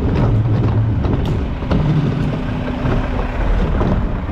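Front-loader garbage truck's engine running steadily, with a few sharp knocks.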